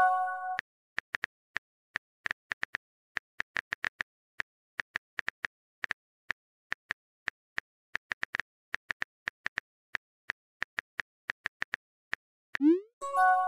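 Simulated phone keyboard typing: a rapid, irregular run of light key clicks. Just at the start, and again near the end, a message-sent sound plays: a quick rising whoosh, then a short chime of several notes sounding together.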